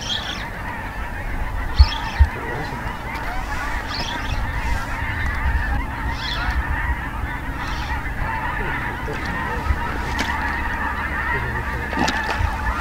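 Birds calling every couple of seconds over a steady outdoor noise, with two sharp thumps about two seconds in.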